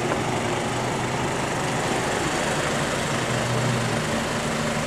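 Jeep Wrangler's engine running at low speed, a steady hum over a light hiss; the engine note changes about four seconds in.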